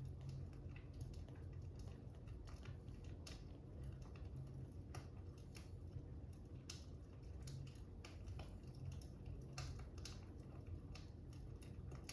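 Fire crackling: irregular sharp crackles and pops, a few louder than the rest, over a low steady rumble.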